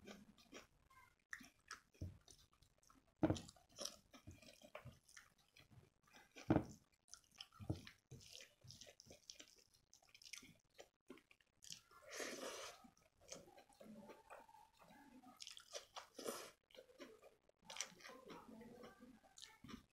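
Close-up mouth sounds of a person eating rice and palak paneer by hand: irregular chewing, smacking and soft wet clicks, mixed with the squelch of fingers working the rice into the spinach gravy. One longer noisy sound comes about twelve seconds in.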